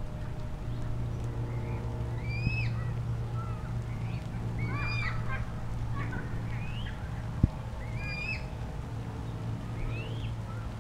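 A bird calling over and over: short high notes that rise and fall, about every two seconds, over a steady low hum. A single sharp knock about seven seconds in.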